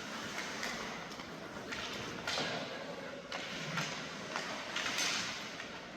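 Ice hockey play in an arena: short hissing scrapes of skate blades on the ice come every second or so, with sharp clacks of sticks and puck.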